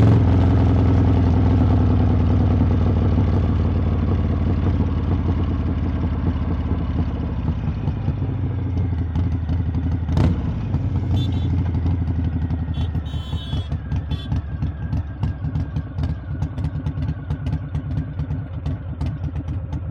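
Harley-Davidson V-twin engine and exhaust running, the note easing off and growing quieter as the bike slows, then settling into a lumpy idle of evenly spaced pulses. A single sharp click about ten seconds in.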